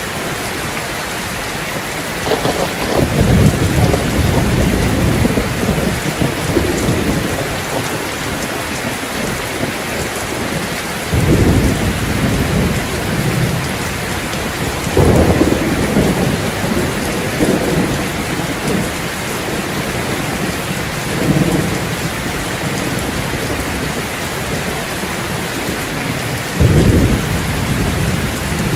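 Steady rain with low rolls of thunder, about five rumbles spread through, each lasting a second or two.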